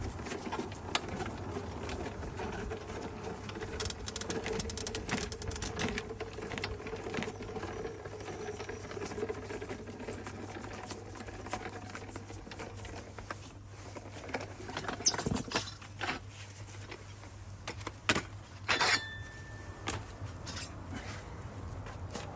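Scattered clicks and knocks of hand work at a manual tyre changer, with a few louder knocks in the second half, over a steady low hum.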